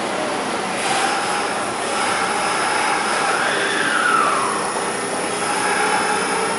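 Hanshin 9000 series electric train moving in an underground station: a steady rumble carrying several whining motor tones, with one whine that slides down in pitch about halfway through.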